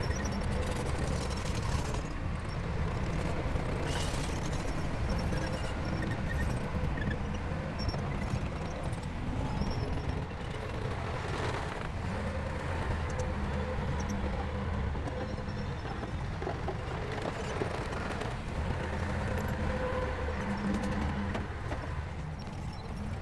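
Diesel engine of a bulldozer running steadily, with a few brief metallic knocks.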